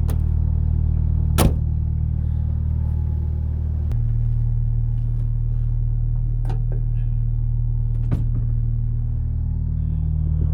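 Vehicle engine idling steadily after a cold start, warming up; its idle note shifts about four seconds in. A few sharp knocks and clicks sound over it, the loudest about a second and a half in.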